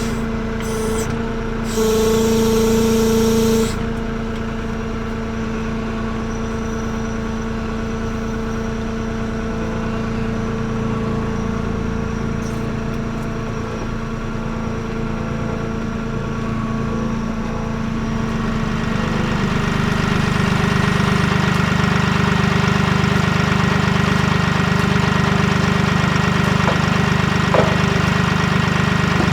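Avant 755i compact tractor's diesel engine running steadily. A high steady whine sits on top of it for the first few seconds, and the engine gets heavier and louder about two-thirds of the way through.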